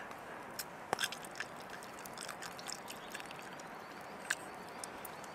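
Faint chewing and mouth clicks from a person eating a cooked pike's eye, with a few scattered small clicks.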